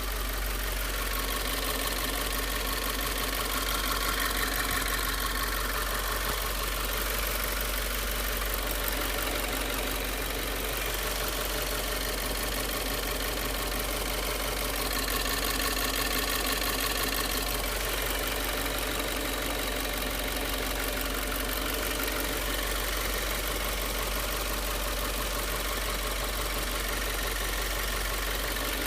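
Subaru WRX's turbocharged flat-four boxer engine idling steadily, with a light repetitive tapping in the running that the owner fears is knock from running 87-octane regular gas.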